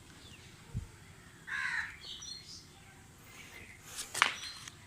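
A crow caws once about a second and a half in, with small birds chirping faintly. A sharp click comes near the end.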